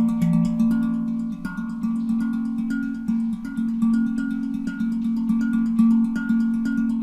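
Handpan (HanDrum) tuned to F Phrygian at 432 Hz, played with the hands in a quick, steady stream of struck notes that ring on and overlap.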